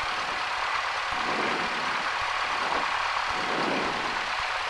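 Cessna 172's piston engine idling steadily at about 1000 rpm, heard as a constant drone with hiss.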